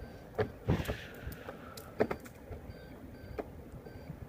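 Hoverboard rolling along pavement: regular knocks about every two-thirds of a second, with short faint whines from the hub motors.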